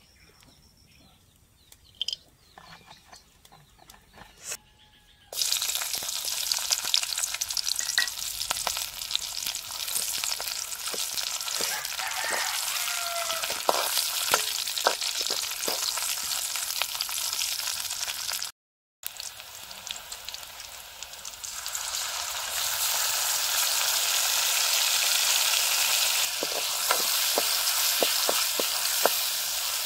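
Sliced onions frying in hot oil in an aluminium kadai. The sizzle starts suddenly about five seconds in and grows louder in the second half, with a steel ladle scraping and clinking against the pan as it stirs. It cuts out for a moment midway.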